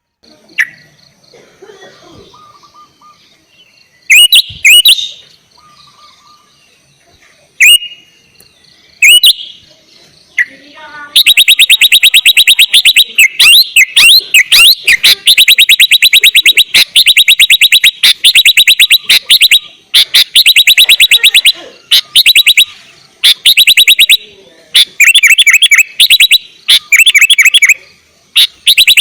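Sooty-headed bulbul singing: a few short separate calls, then from about eleven seconds a long, loud run of rapid repeated chattering notes, broken by short pauses.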